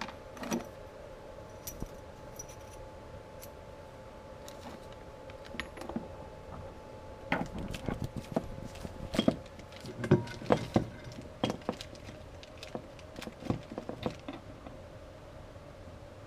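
Small metal motorcycle parts being handled and set down: scattered light clinks and rattles, most of them in the middle of the stretch, over a steady faint hum.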